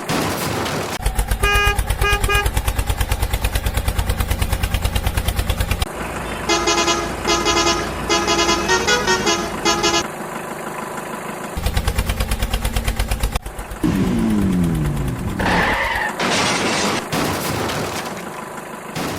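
Vehicle sound effects: an engine chugging in rapid even pulses, broken by short runs of honking horn notes. About two-thirds of the way through comes a falling glide in pitch, then bursts of noise.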